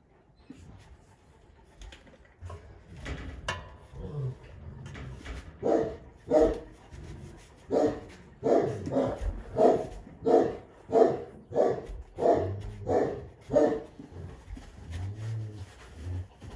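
Central Asian Shepherd dog barking in a steady run of about a dozen deep barks, starting about six seconds in.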